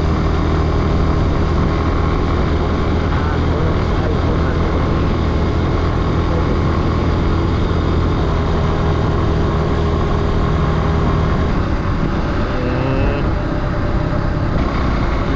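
Kawasaki W175's single-cylinder engine running steadily while the motorcycle is ridden, with wind noise on the microphone. About three seconds before the end the engine note wavers and shifts.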